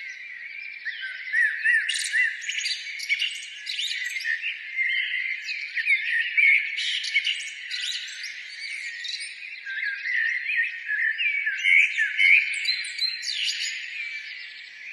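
A chorus of birds chirping and singing, many short overlapping calls and quick whistled glides with no low sound under them.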